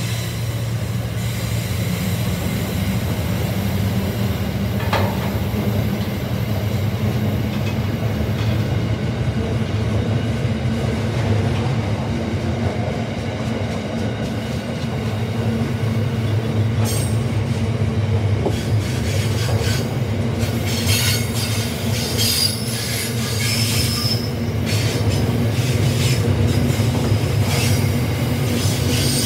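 Freight train container wagons rolling past with a steady low rumble of steel wheels on rail. In the second half, high-pitched wheel squeals and short clicks join the rumble.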